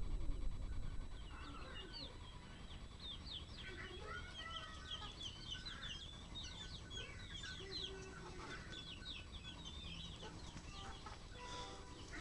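Chickens calling: many short, high calls in quick overlapping succession, with a few lower clucks among them. A low rumble sounds in the first second.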